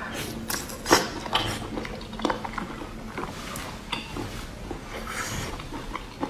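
Close-miked eating of saucy braised abalone: wet chewing and smacking with many short sticky clicks, the sharpest about a second in, and fingers squelching as they pull the meat from the shell.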